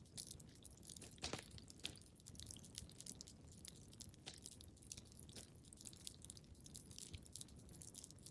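Wood fire crackling in a fireplace: a quiet, steady run of small snaps and pops over a low rumble, with a couple of louder pops in the first two seconds.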